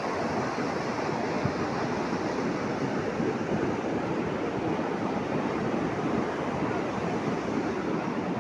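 Steady rushing of fast-flowing water, a dense, even noise with no breaks.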